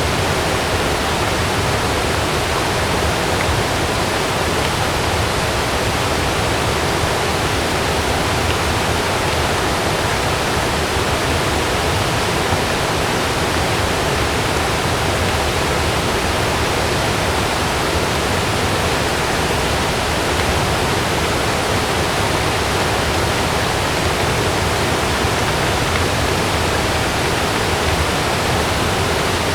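Heavy rain pouring steadily: a dense, even hiss with no thunderclap or distinct drops standing out.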